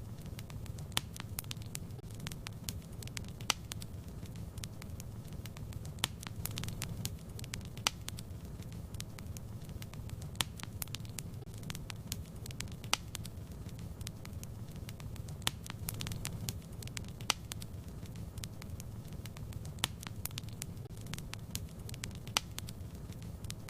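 Wood fire in a fireplace crackling: a steady low rumble of flames with sharp pops and snaps at irregular intervals, a few each second.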